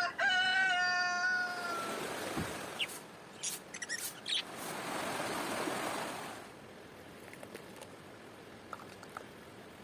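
A rooster crowing once, a long call that trails down in pitch at the end. A few sharp clicks and a short soft hiss follow.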